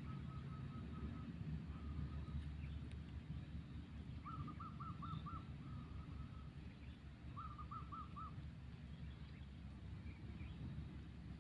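A bird calling in short repeated notes: a quick string at first, then two bursts of about five notes each. A steady low rumble runs underneath.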